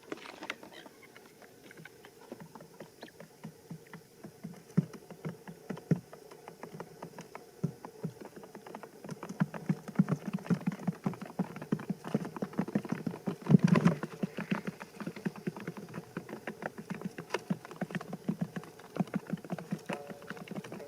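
Many small irregular taps and scratches, sparse at first and growing dense and rapid about halfway through, with a louder flurry a little past the middle.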